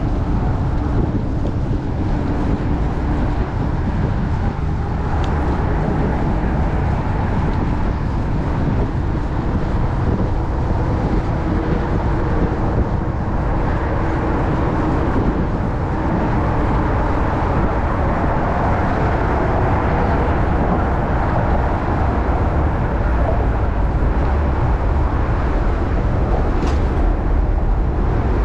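Strong wind buffeting the microphone of a chest-mounted camera on a moving bicycle, a constant low rumble, with city traffic underneath.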